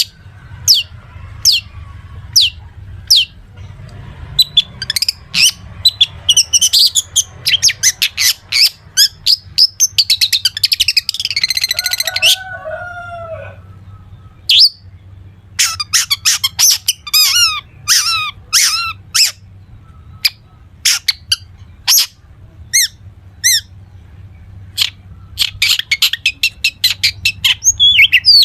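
Long-tailed shrike (cendet) singing a rapid string of sharp, high down-slurred notes, with a fast trill about halfway through and a short pause after it, its song filled with mimicked calls of other birds. A faint steady low hum runs underneath.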